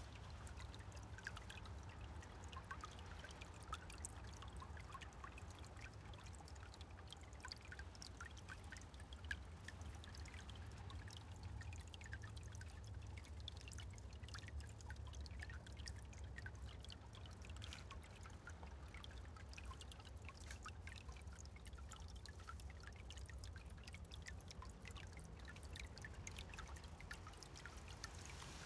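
Small forest stream trickling steadily, with many small plinks and drips of water over a low rumble.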